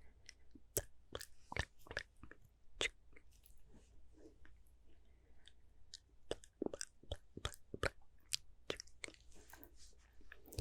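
Close-miked mouth sounds: irregular short clicks and smacks of lips and tongue, about one or two a second.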